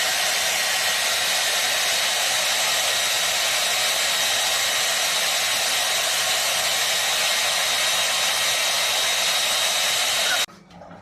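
A small electric blower motor running steadily: a loud, even rushing noise with a faint high whine, cutting off abruptly near the end.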